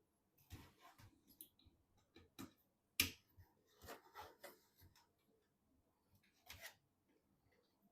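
Scattered small clicks and taps of computer parts and fittings being handled and snapped into place during PC assembly, the sharpest click about three seconds in.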